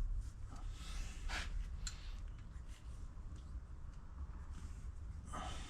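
Faint rustling and a few light clicks of parts being handled, over a low steady hum.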